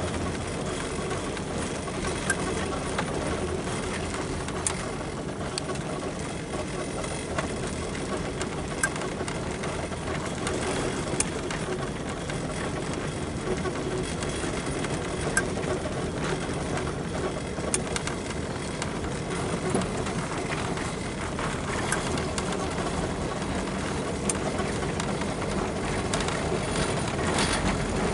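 Riding tractor engine running steadily while plowing snow, with a few faint clicks over the drone.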